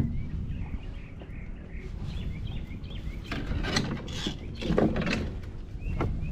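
Small birds chirping repeatedly over a low steady background, with two louder scuffing knocks about three and a half and five seconds in.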